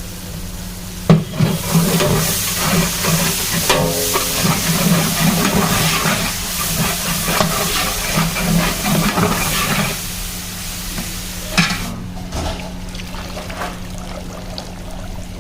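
Food frying in a large biryani pot and being stirred, a dense sizzle opened by a sharp knock about a second in. It dies down to a quieter hiss after about ten seconds.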